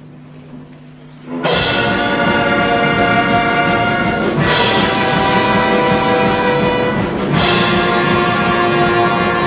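Estrada-symphony orchestra with brass and timpani playing: a quiet held low note gives way about a second and a half in to a sudden loud full-orchestra entry, with new accented chords about three and six seconds after that.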